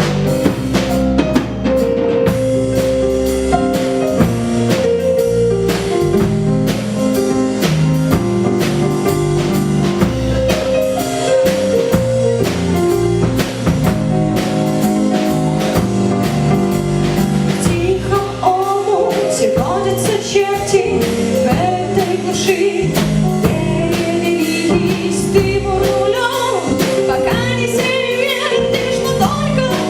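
Live band playing a song: a drum kit keeps a steady beat under sustained chords, and a wavering lead melody comes in about eighteen seconds in.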